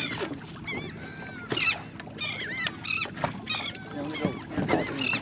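A flock of seabirds feeding over a school of redfish, calling repeatedly with short, arched, squawking calls that overlap from several birds.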